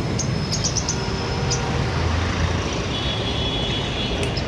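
Steady street traffic noise, a rumble of passing vehicles, with a scatter of short high chirps or squeaks in roughly the first second and a half and again just before the end.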